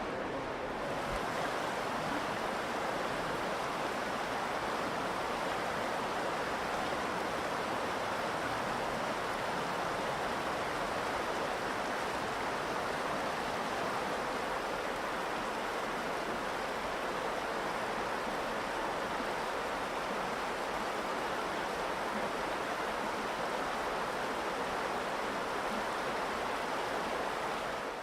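The Virgin River rushing steadily over its rocky bed, an even wash of moving water with no breaks.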